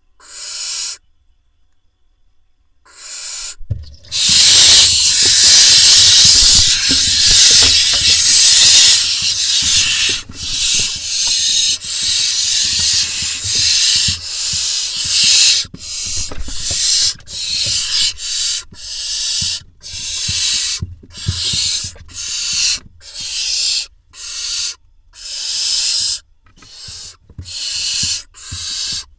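Barn owl nestlings hissing their begging calls. After a single short hiss and a brief lull, a long loud hiss with low thumps of movement starts about four seconds in and lasts about five seconds. Then it breaks into a steady series of separate hisses, about one a second.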